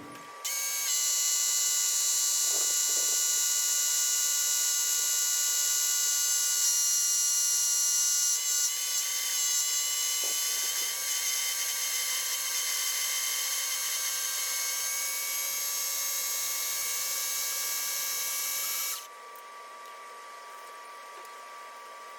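Small electric motor running at a steady high-pitched whine for about eighteen seconds, starting and stopping abruptly.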